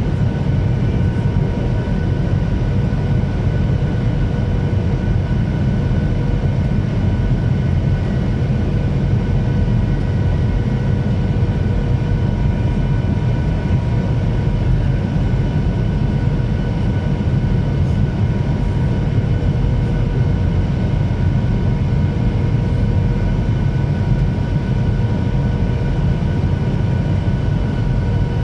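Steady jet noise of a Ryanair Boeing 737 on approach: an even low rumble of engines and airflow, with a few faint steady whining tones above it.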